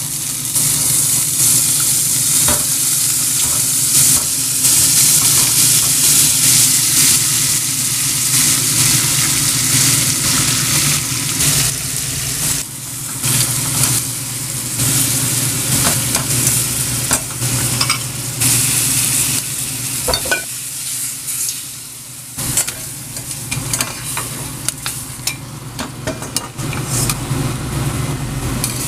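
Lemon dill butter frying with shrimp and scallops in a stainless steel pan: a steady sizzle full of small crackles, with a metal slotted spatula stirring and scraping the pan. A steady low hum runs underneath, and the sizzle drops away briefly about two-thirds of the way through.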